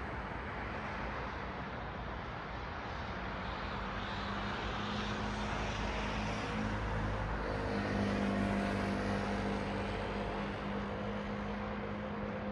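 Road traffic: a steady wash of tyre and engine noise from passing cars, swelling a little about eight seconds in, with a low steady engine hum from a nearby vehicle.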